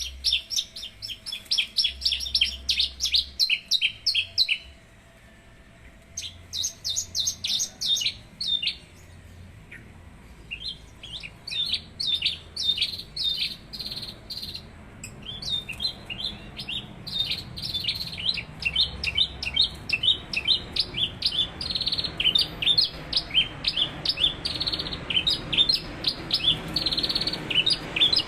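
Branjangan (Javan bush lark) singing: long rapid strings of short chirping notes, broken by brief pauses about 5 seconds and 9 seconds in.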